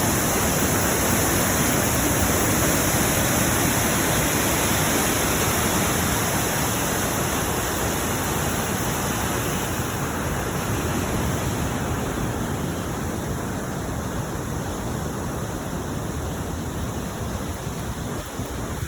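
Small waterfall splashing over rocks, a steady rushing noise of falling water.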